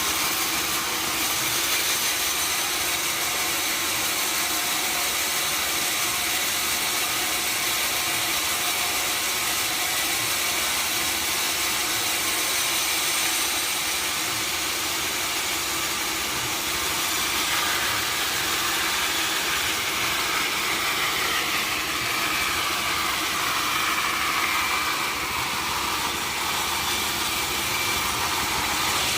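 Sawmill saw and its engine running steadily, cutting mahogany, with a faint whining tone that slides down in pitch in the second half.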